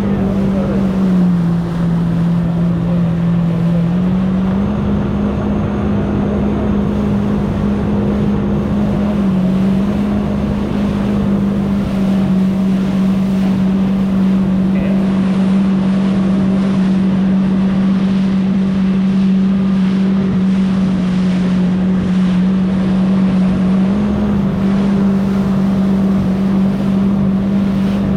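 Jet ski engine running steadily under way, with a strong even drone whose pitch sags for a couple of seconds near the start and briefly around ten seconds in, over wind and water noise.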